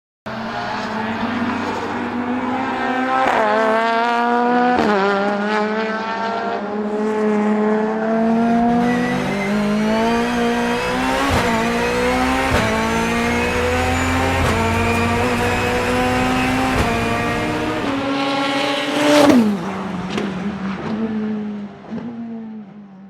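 Turbocharged BMW S14B20 four-cylinder in an E36 time-attack car accelerating hard, its pitch climbing and dropping back at each of several sequential-gearbox upshifts. About nineteen seconds in comes the loudest moment, with the pitch sweeping sharply down.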